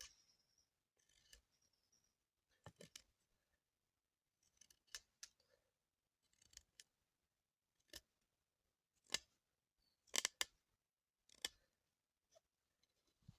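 Short, sharp snipping clicks in small irregular groups, a cluster every second or so, loudest about nine to ten seconds in: a hand cutting tool snipping material while a small trap is being made.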